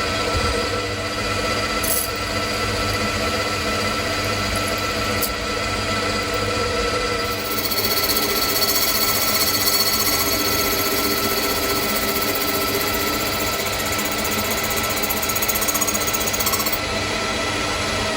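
Small workshop machine tool running steadily, its motor hum mixed with the noise of a cutter working into the metal of a model engine's piston valve. The sound gets a little louder and hissier about seven seconds in.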